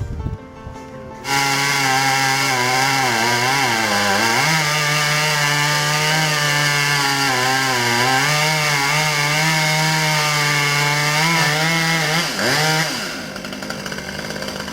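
Chainsaw opened up to full throttle about a second in, its pitch sagging and recovering as the chain bites into wood, then dropping off near the end.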